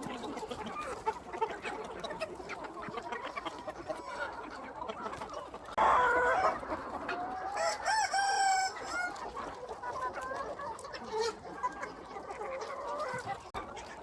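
A flock of free-range chickens clucking continually, with a rooster crowing once about halfway through.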